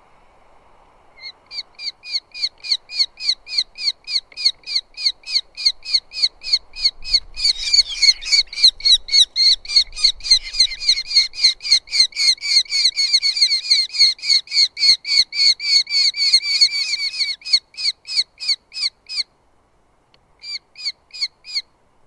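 Eurasian hobbies calling at the nest: a long, rapid series of sharp repeated notes, about four a second, starting about a second in. A second caller overlaps for much of the middle, the calling breaks off near the end, then a short burst of a few more calls follows.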